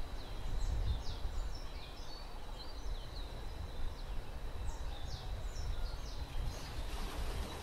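Small birds chirping: many short, high, downward-sweeping chirps, several a second, over a steady low rumble.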